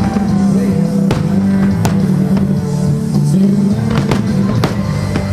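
Music playing steadily, with several sharp firework shell bursts banging over it.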